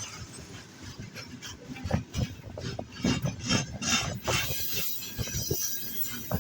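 Freight train wagons rolling past, their wheels clattering with irregular knocks.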